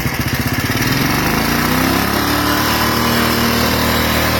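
1938 Moto Guzzi 500cc single-cylinder F-head engine running with separate, loping firing beats, then revved up over about a second and a half and held at high RPM.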